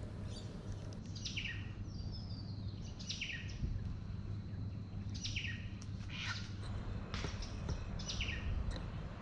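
Birds calling in coastal bushland: several short calls, each sweeping down in pitch, repeated every second or two over a steady low background rumble.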